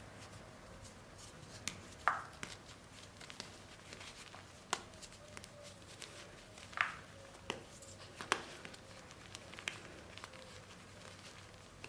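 Scattered light clicks and taps from handling soft gym chalk and cornstarch paste, the loudest two at about two seconds and seven seconds in.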